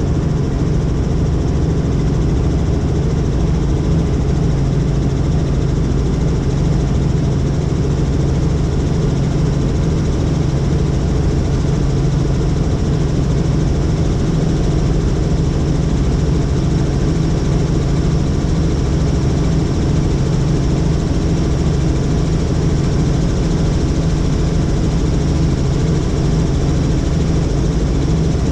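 Helicopter in flight: steady, loud rotor and engine noise that does not change.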